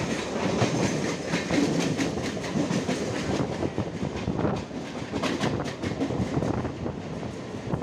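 Passenger express coaches running at speed on the adjacent track, heard from a moving train alongside: a steady rumble and rush of rolling stock. The wheels clatter over rail joints, with a dense run of quick clicks about halfway through.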